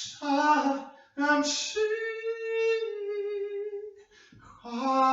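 A single voice singing unaccompanied: a few short phrases, then one long held note with a slight waver, and a new phrase starting near the end.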